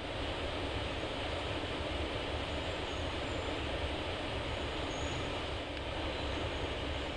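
Airbus A320neo with Pratt & Whitney PW1127G geared turbofans taxiing after landing, its engines near idle: a steady rumble and hiss.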